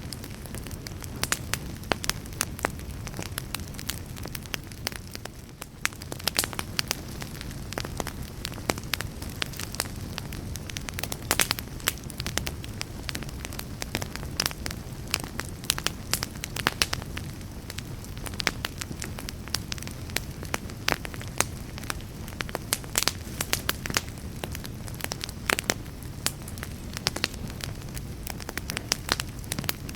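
Wood fire burning in a fireplace: frequent sharp crackles and pops, several a second and irregular, over a steady low rumble of the flames.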